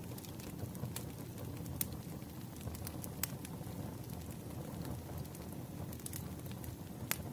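Wood fire crackling: a steady low rumble of burning logs with scattered sharp pops and snaps every second or two.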